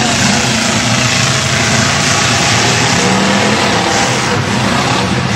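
Demolition derby car engines running and revving in a continuous loud din.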